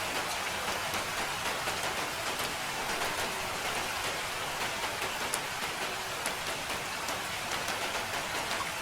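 Steady rain: a dense, even hiss with scattered sharper ticks of individual drops striking.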